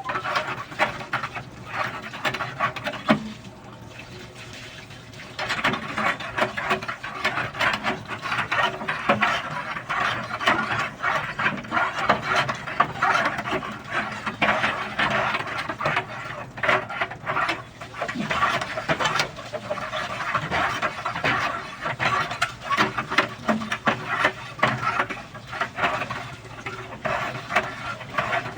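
Rapid, irregular scraping and rubbing strokes, with a pause of about two seconds near the start.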